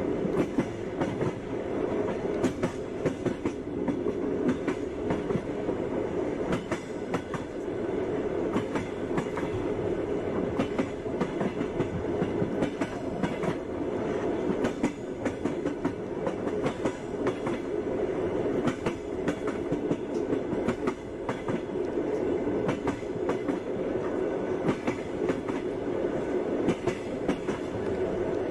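Passenger train running at speed, its wheels clacking over the rail joints with frequent irregular clicks over a steady rumble.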